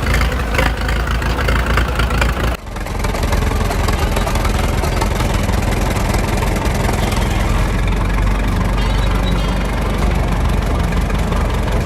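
Allis-Chalmers Model U tractor engine running steadily. About two and a half seconds in, the sound cuts abruptly to another stretch of running engine.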